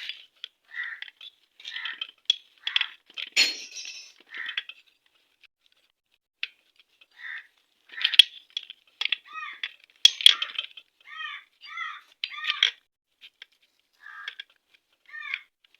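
Honda Shine motorcycle clutch plates and metal parts clinking and tapping against each other and the clutch hub as the clutch pack is fitted by hand: a string of short metallic clinks, the sharpest two about 8 and 10 seconds in.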